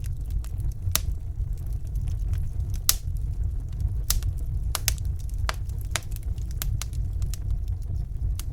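Wood fire burning in a fireplace: irregular sharp crackles and pops, a dozen or so, over a steady low rumble.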